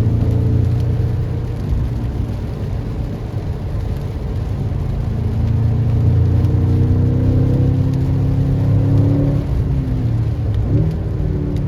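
BMW M6 Competition's twin-turbo V8 pulling under load, its note climbing slowly through the revs for several seconds. Near the end the pitch dips, then sweeps up again.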